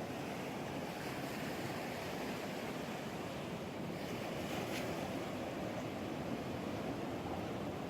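Ocean surf washing on the shore in a steady rush.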